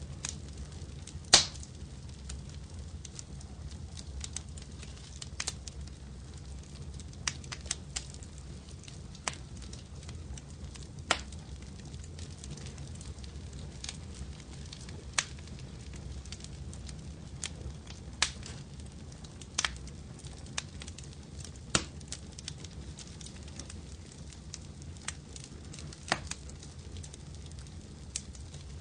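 Wood fire crackling in a fireplace: irregular sharp pops and snaps, a few every couple of seconds and the loudest about a second and a half in, over a steady low rumble of the flames.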